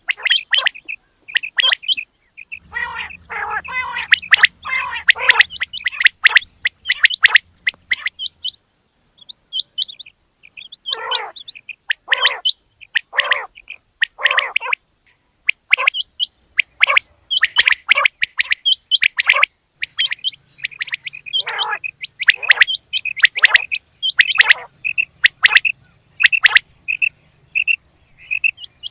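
Quail calling: a rapid, continuous series of short, sharp chirps with intermittent buzzier trills, sometimes in quick bursts and sometimes spaced out.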